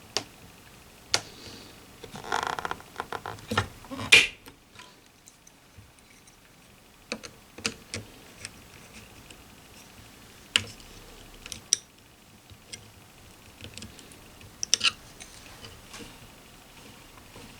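Scattered clicks and taps of small parts being handled and fitted on a vintage radio console's front, with a short scraping rustle about two seconds in and a sharper click about four seconds in.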